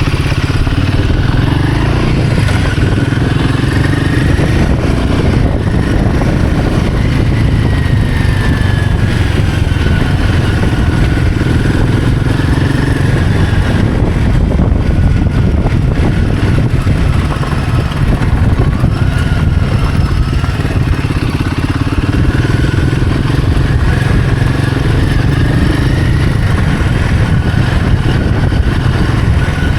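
Royal Enfield Himalayan 450's single-cylinder engine and exhaust running while riding off-road, the revs rising and falling again and again with the throttle.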